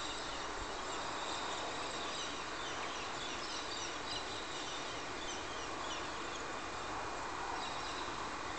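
Birds chirping in short, scattered calls over a steady background hiss of outdoor ambience.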